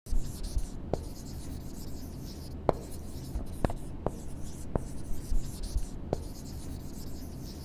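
Felt-tip marker drawing on a board: a steady scratching of the tip with about six sharp ticks scattered through it. The sound starts and stops abruptly, like an added drawing sound effect.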